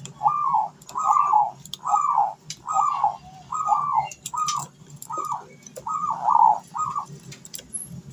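Puter dove (Javanese turtle dove) cooing its slow 'kuk-deruk' song: a run of about ten similar arched coos, evenly spaced a little under a second apart, stopping about seven seconds in. Faint high clicks and chirps sound behind it.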